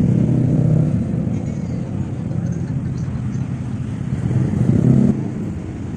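Motor scooter engine running close by, a steady low rumble that swells louder about five seconds in and then drops away abruptly.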